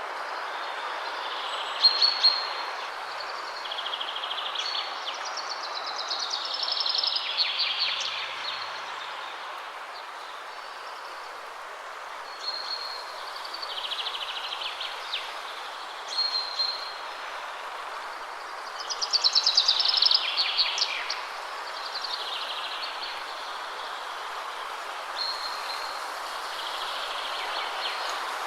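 Wind rushing steadily through trees, with songbirds singing short repeated phrases over it every few seconds; the loudest phrase, about two-thirds through, is a quick run of notes falling in pitch.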